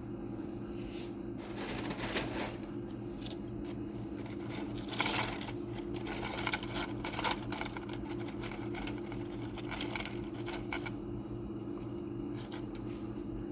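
Intermittent rustling and light clicking of food or utensils being handled, over a steady low hum, likely from a kitchen appliance.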